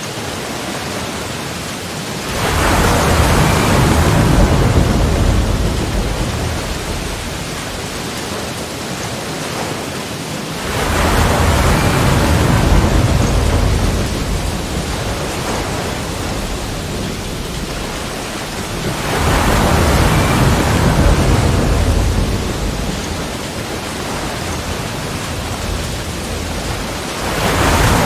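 Sea waves breaking on the shore, one about every eight seconds. Each wave swells quickly into a loud rush and then washes back down to a steady hiss of surf.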